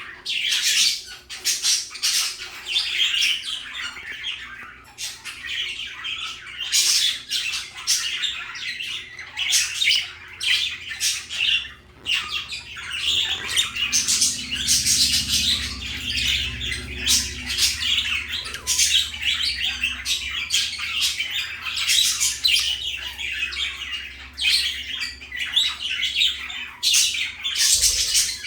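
Budgerigars chattering and squawking continuously, several birds calling over one another in quick high chirps and warbles. A low steady hum runs underneath.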